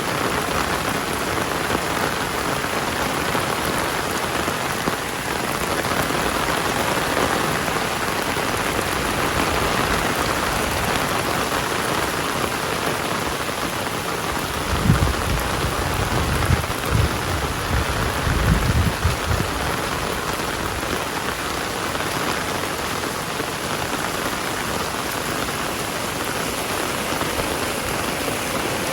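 Heavy rain falling steadily, a dense even hiss of rain on surfaces. About halfway through, a few seconds of low rumbling bumps sound under it.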